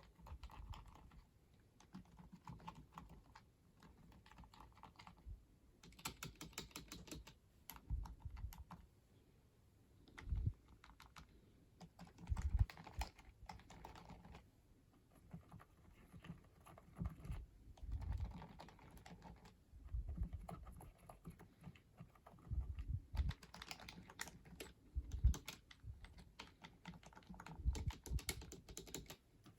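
Typing on a Walmart onn wireless silent keyboard: soft, irregular key clicks in runs, with now and then a heavier low thud. The keyboard has been in use for over a year, which the owner blames for it being a little noisier than the Logitech.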